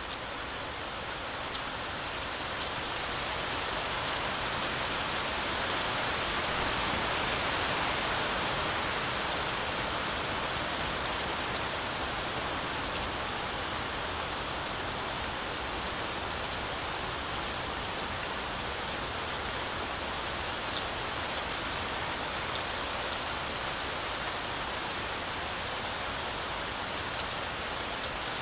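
Heavy rain falling steadily on a forest canopy: a dense, even hiss of drops with a few sharper drop ticks. It swells a little louder a few seconds in, then eases back.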